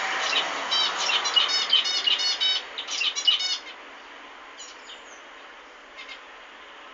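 Zebra finches singing: a quick run of short, buzzy stacked notes for about three and a half seconds, then only a few scattered calls.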